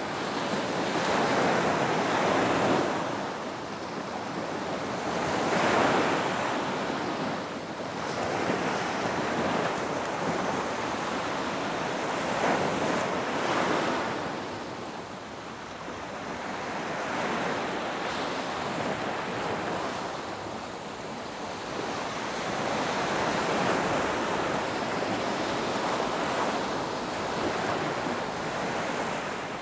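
Ocean waves breaking on a beach and washing back, a continuous surf that swells and eases every few seconds.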